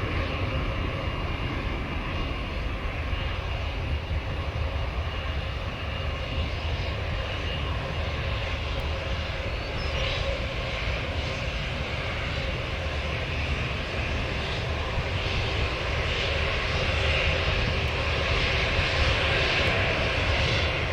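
Jet airliner engines, steady at first and growing louder from about halfway through as the aircraft comes nearer, over a constant low rumble of wind on the microphone.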